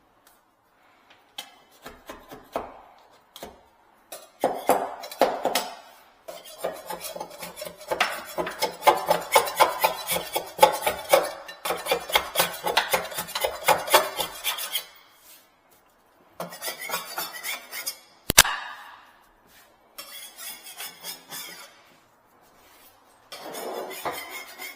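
Fast metal-on-metal scraping and clattering on a sink, with a ringing tone, busiest in the middle stretch. A single sharp knock comes about three quarters of the way through.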